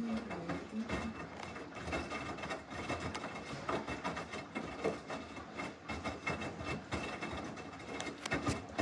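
Samsung washing machine running its wash cycle: the drum turning and tumbling the load with a dense, irregular clatter of clicks and knocks over a faint steady high tone.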